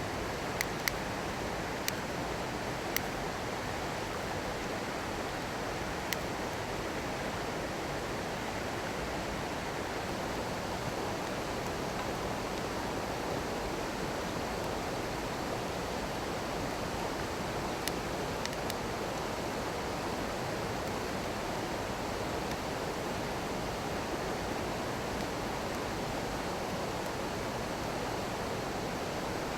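Small stream babbling steadily, with a few sharp pops from a crackling wood bonfire, most of them in the first few seconds and a couple more past the middle.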